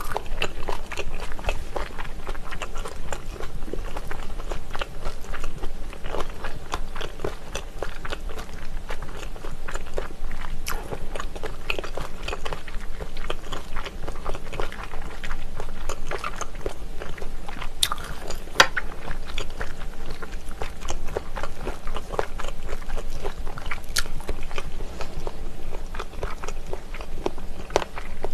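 Close-miked chewing and biting of spicy pressed chicken-feet terrine (dakbal pyeonyuk) and cabbage-leaf wraps. A steady stream of wet mouth clicks and smacks, with a few sharper clicks.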